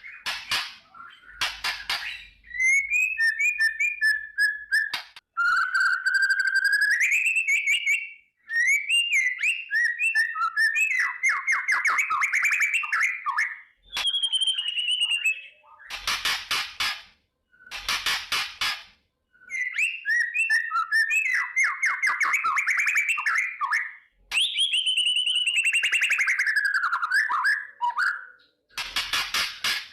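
White-rumped shama (murai batu) singing: rapid trilled phrases and whistles that slide up and down, broken several times by short, harsh crackling rattles, the shama's 'kretekan' call.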